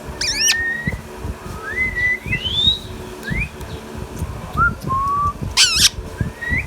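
Indian ringneck parakeet whistling: a series of short whistled notes, many gliding upward in pitch, broken by two brief shrill screeches, one about half a second in and one near the end.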